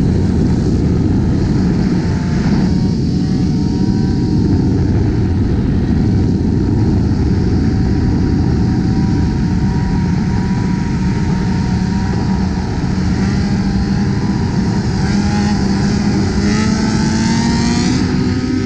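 Sport motorcycles running at highway speed over heavy wind and road noise, their engine notes drifting up and down, with a rise in pitch near the end as bikes accelerate.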